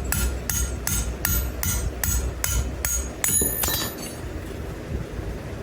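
Hand hammer striking hot wrought iron on an anvil, with a ringing metallic tone, about two and a half blows a second. The blows stop about three seconds in, followed by a brief clink of metal. A steady low rumble runs underneath.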